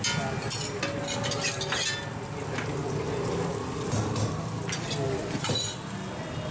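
Filled dabeli buns sizzling as they fry on a hot tawa griddle, with the scrape and clink of a spatula and steel dishes several times.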